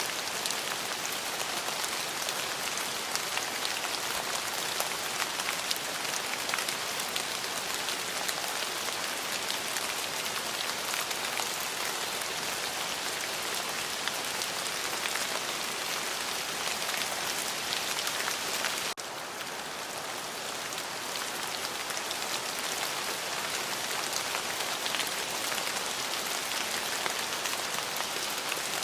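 Steady rain falling, a dense hiss dotted with the ticks of individual drops. About two-thirds of the way through it cuts suddenly to a slightly quieter stretch that builds back up over a few seconds.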